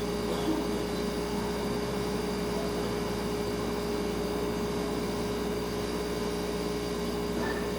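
Refrigerator humming steadily, a constant low tone over even background hiss.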